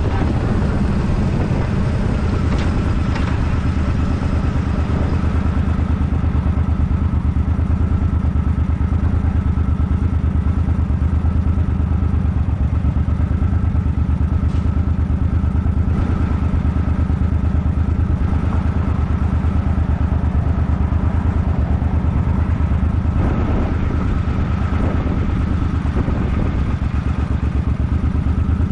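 Suzuki Boulevard M50's V-twin engine running at a steady pace under way.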